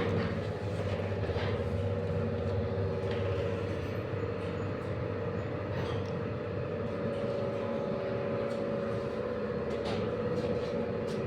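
Old 1972 Soviet passenger elevator running in its shaft: a steady drive-motor hum with the car's travel rumble and occasional clicks and knocks.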